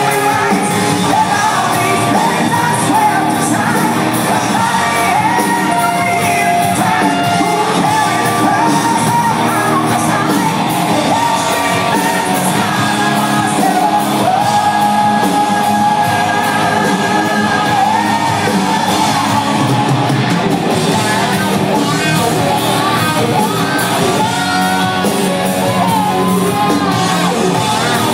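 Live hard rock band playing loudly with a singer belting over electric guitars and drums, with the echo of a large hall.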